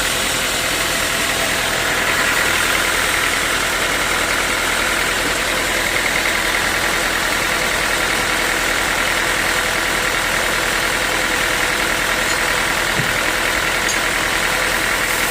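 Sawmill saw running steadily, an unbroken loud machine noise with a strong hiss in the upper middle range.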